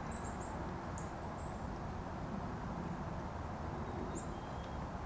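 Steady low outdoor rush with a small bird giving several very short, high-pitched chirps: a group at the start, more about a second in, and another about four seconds in.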